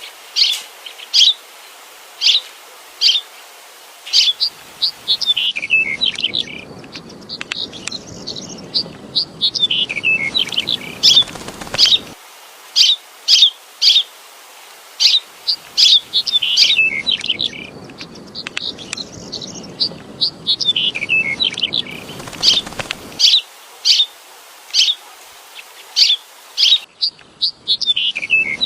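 Songbirds chirping, with sharp high chirps about once a second and some quick falling trills. A steady low rushing noise sits under the birds from about five to twelve seconds in and again from about seventeen to twenty-three seconds.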